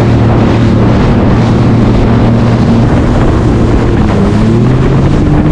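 Jet ski engine running at speed, a steady hum whose pitch climbs briefly near the end, under wind rushing over the microphone and water noise.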